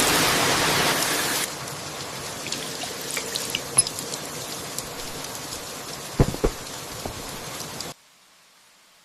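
Steady rain falling, with scattered drips, louder for the first second and a half, then settling to an even patter. Two short low knocks come close together about six seconds in, and the rain cuts off abruptly near the end.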